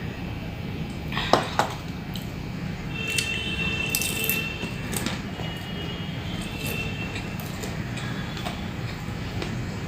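Tableware clinking: two sharp knocks about a second in, then a ringing clink of crockery or glass a few seconds later.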